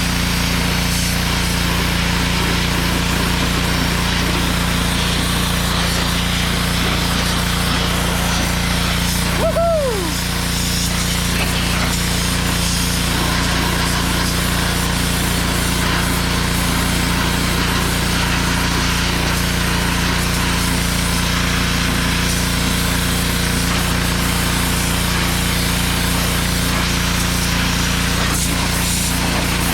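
A pressure washer runs steadily while its water jet sprays at full pressure, a continuous hiss over a constant motor hum, blasting rust and grime off a wheel rim.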